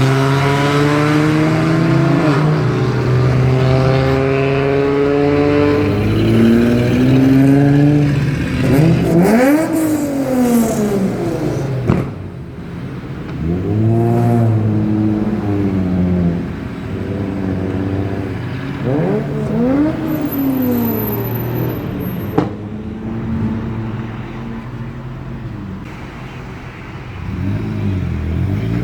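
Loud vehicle engines in street traffic, revving up and down several times so the engine pitch sweeps up and falls away, over a steady engine drone. Two sharp clicks come partway through.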